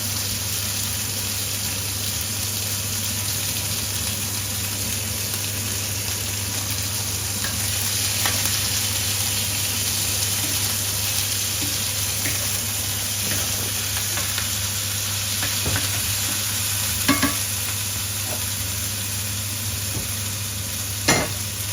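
Chicken and onions frying in pans with a steady sizzle, broken by a few sharp knocks, the loudest two in the last few seconds.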